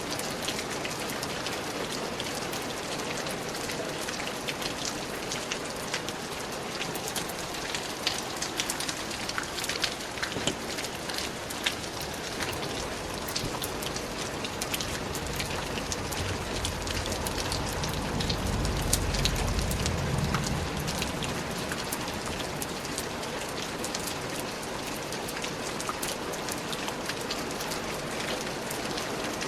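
Steady rain falling, with many individual drops striking close by. About two-thirds of the way through, a low rumble swells for a few seconds and fades.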